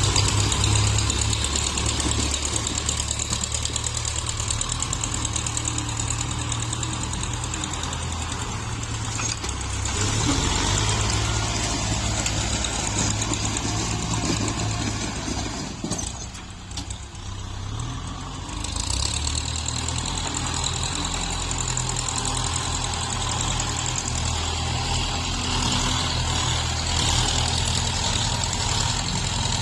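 Diesel tractor engines running steadily while grading soil, with a low, even engine note. The sound drops away briefly about sixteen seconds in, then picks back up.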